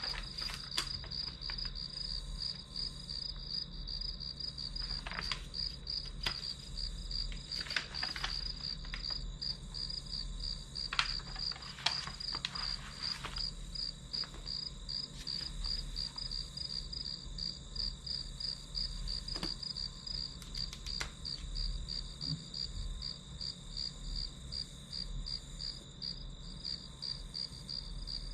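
Crickets chirping: a steady, evenly repeating high chirp, about three a second, with a few short clicks scattered through it.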